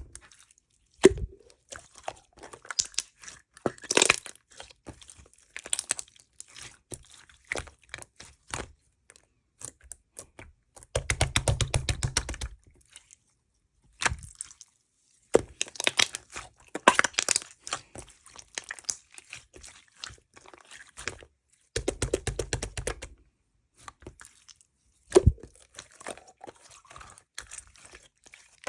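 Close handling sounds: scattered crackling and crunching, broken twice by a short burst of rapid, dense clicking.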